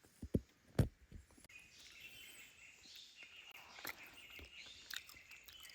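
Two dull thumps in the first second, then birds chirping faintly in high, fluttering calls.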